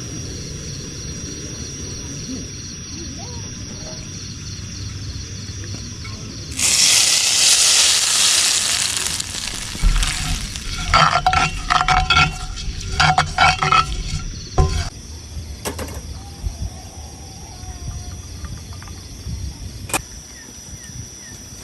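Camp cooking: a sudden loud sizzle-like hiss for about three seconds, then a run of sharp metal clinks of pots and utensils, with a couple more clinks near the end.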